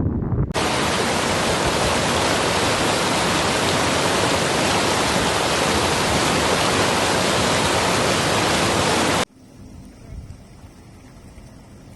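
Loud, steady rush of water, an even hiss with no rhythm or pitch, starting suddenly about half a second in and cutting off abruptly near the end, after which only a faint low rumble and hiss remain.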